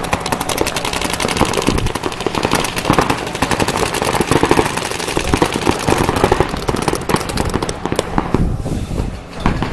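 Rapid shots fired in fast overlapping strings, like automatic gunfire, with voices shouting over them. The firing thins out near the end.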